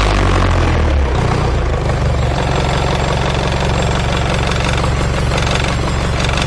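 Freshly overhauled YTO 854 tractor diesel engine running steadily on a test stand during its run-in. Its note shifts about a second in and then holds even.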